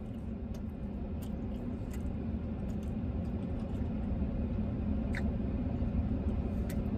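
A man chewing a mouthful of chewy protein bar, with scattered soft mouth clicks, over a steady low hum.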